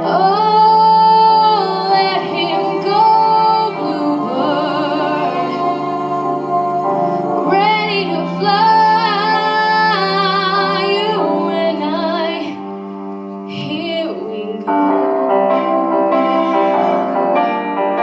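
A woman singing a slow solo ballad over piano accompaniment, holding long notes with vibrato. The music softens briefly about two-thirds of the way through, then swells again.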